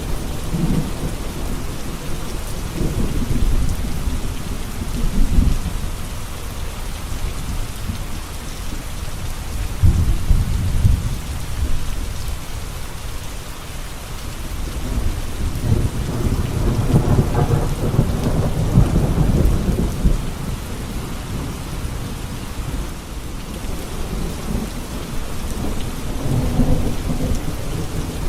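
Steady heavy rain hissing, with low rolling thunder rumbling several times. The longest rumble comes about sixteen to twenty seconds in.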